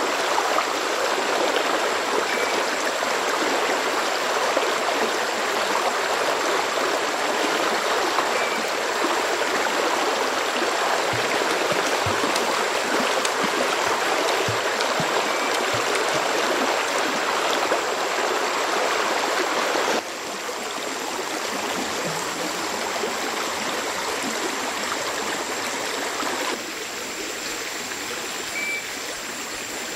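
Flowing water, steady and fairly loud, like a stream running. The level drops suddenly about twenty seconds in and again near the end.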